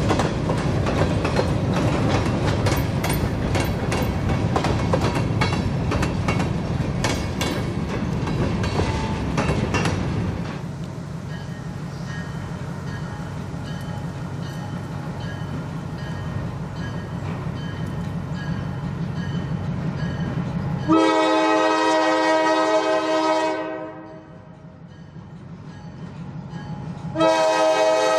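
Free-rolling covered hopper cars rumble past with their wheels clicking over the rail joints. Then a diesel switcher locomotive runs toward the listener with a steady low engine hum. It sounds its horn twice: a blast of about two and a half seconds some 21 seconds in, and another that starts near the end.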